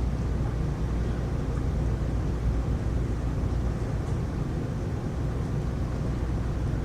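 Steady rainstorm noise, heaviest in a low rumble, with no sharp thunderclap.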